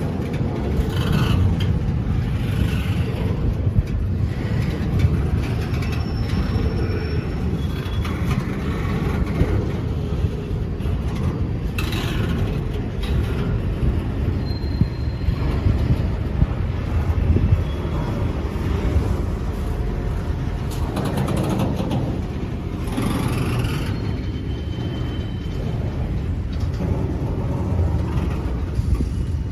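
A train rolling past: a steady low rumble with scattered clacks and a few short, high squeals.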